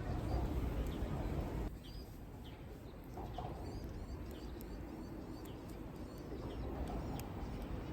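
Small birds chirping repeatedly in short, quick calls over a low outdoor rumble; the rumble is louder for the first second and a half, then drops suddenly.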